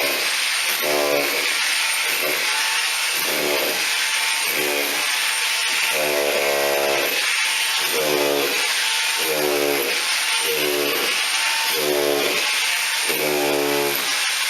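Electric drill boring through the house wall. The motor runs continuously under load, and its pitch swells and sags about once a second as the bit is worked back and forth in the hole.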